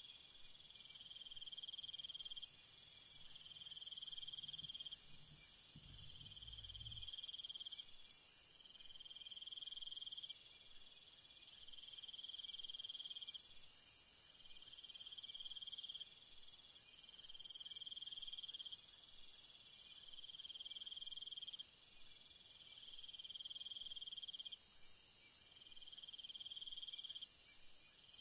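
Chorus of night insects, crickets or similar: a steady very high-pitched shrill, with a lower trill that swells and breaks off in regular pulses every two to three seconds.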